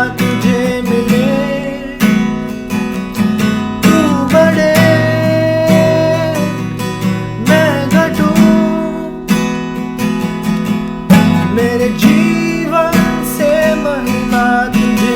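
Acoustic guitar strummed in a steady rhythm as a worship-song accompaniment, with a wavering melody line above the chords.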